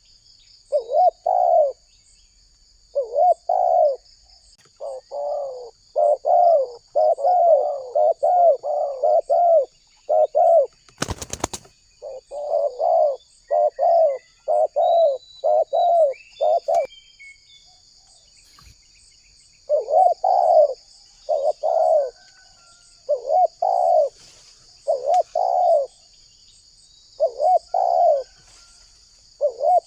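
Spotted doves (tekukur) cooing in repeated low phrases, one after another, with a pause of a few seconds past the middle. A steady high insect trill runs behind the calls, and a sharp click sounds about 11 seconds in.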